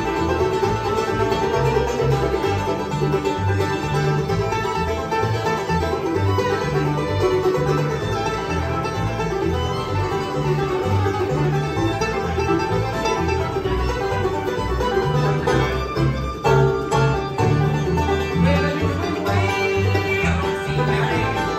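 Bluegrass band playing live, with banjo out front over guitar and low bass notes keeping the beat.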